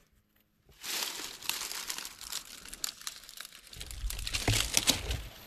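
Dead leaves and brush rustling and crackling as someone pushes through forest undergrowth, starting about a second in, with a few heavier thuds near the end.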